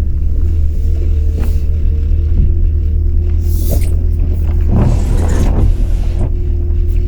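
Truck driving: a steady low rumble from the engine and road, with a short spell of rattling and knocking about five seconds in.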